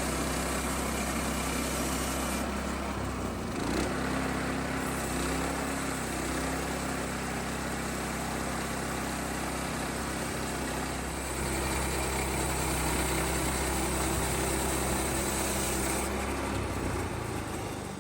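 Woodland Mills portable bandsaw mill running steadily, its small gas engine driving the band blade, with small shifts in pitch now and then; the sound stops abruptly at the end.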